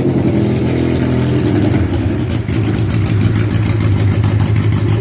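A Yamaha XS 650's air-cooled 650 cc parallel-twin engine runs loudly. Its pitch shifts in the first second or two, then it settles to a steady, pulsing run.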